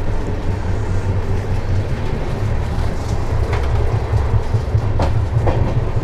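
Double-decker train coach running along the rails: a steady low rumble and rattle of the moving train, with a few sharp knocks in the second half.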